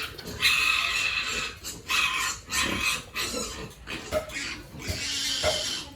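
Pigs squealing over and over, a string of shrill cries each lasting about half a second to a second.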